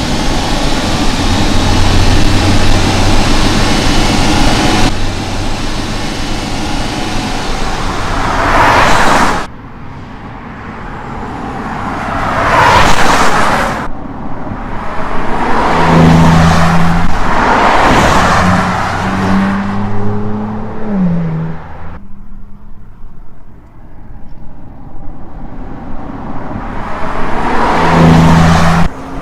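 Audi S5 Sportback's turbocharged V6 car driving past in a series of short cuts, each pass swelling and fading with engine and tyre noise, the engine pitch rising and falling.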